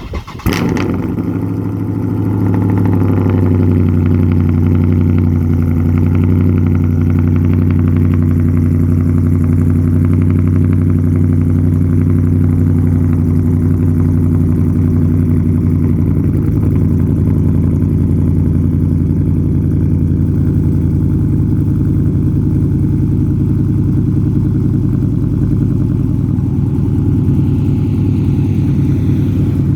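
Cammed Dodge Charger SRT 392's 6.4-litre HEMI V8, running through long-tube headers and a 3-inch catless exhaust with bullet resonators, starts up. It flares briefly and settles within about three seconds to a steady idle.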